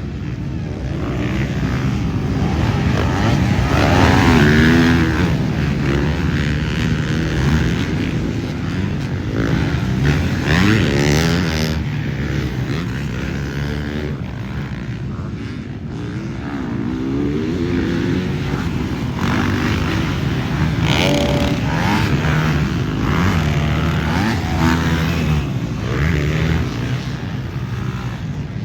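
Motocross dirt bike engines running, their pitch rising and falling several times as the throttle is opened and closed.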